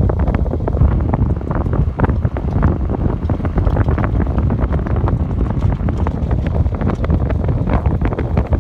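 Strong wind buffeting the microphone: a heavy, steady low rumble with irregular crackling gusts.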